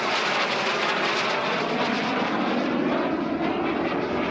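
Jet Provost T5 trainer's Armstrong Siddeley Viper turbojet heard in flight as the jet passes, a steady rushing jet noise that sweeps and drops lower in pitch about three seconds in.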